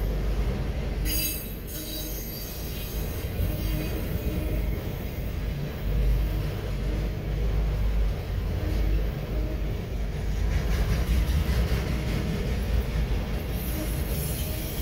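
CSX autorack freight cars rolling past, their steel wheels rumbling steadily on the rails, with a brief high-pitched wheel squeal about a second in and again near the end.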